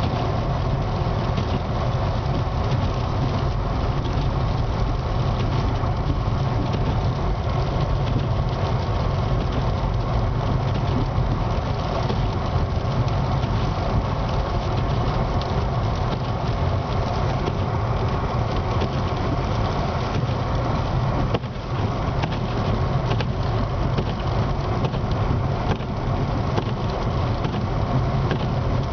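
Steady drone of a car's engine and tyres heard from inside the cabin while driving.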